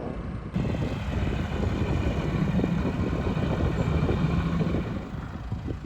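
A four-wheel drive's engine running hard at a fairly steady pitch. It jumps louder about half a second in and eases off near the end.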